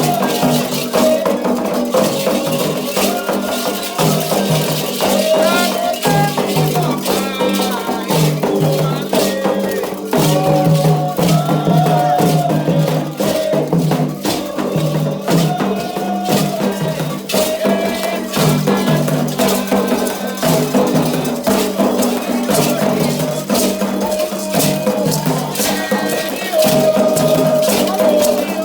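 Candomblé ritual music: a rattle shaken steadily under chanting voices, with drum and percussion strikes.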